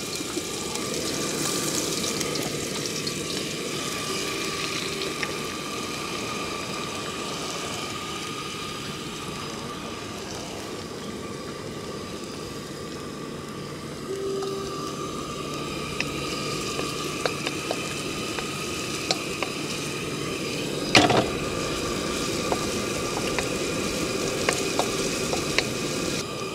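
Sliced garlic and ginger sizzling steadily in hot oil in a wok. Light clicks of a wooden spatula stirring against the pan come in later, with one sharp knock about four-fifths of the way through.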